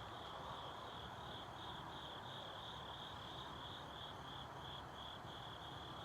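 Insects, crickets by the sound, chirping steadily in a high-pitched pulsing chorus of about three chirps a second, over a faint low background hum.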